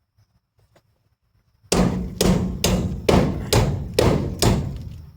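Hammer blows on the rusted, mangled steel around a 1956 Chevy pickup's lower door hinge bolt hole, beating it flat to restore its shape. After a quiet first second and a half come about nine sharp, ringing strikes, a little over two a second.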